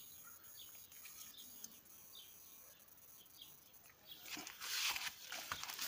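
Small birds chirping faintly, short high chirps repeated every half second or so. About four seconds in, a louder rustling of leaves brushing close to the phone takes over.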